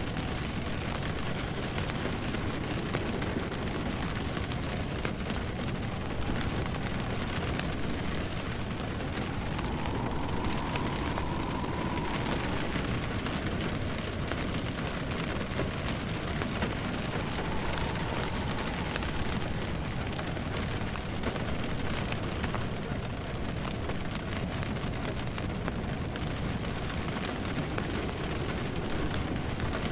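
Steady rain on a surface mixed with a crackling wood fire in a fireplace, with a faint whistle of wind rising and falling about ten seconds in and again shortly after.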